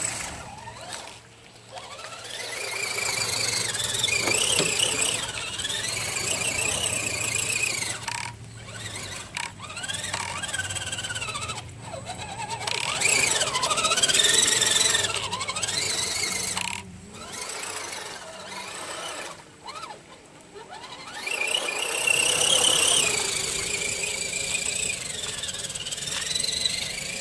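Electric motor and drivetrain gears of an RC rock crawler truck whining as it crawls, the pitch rising and falling with the throttle. The whine stops briefly several times as the throttle is let off.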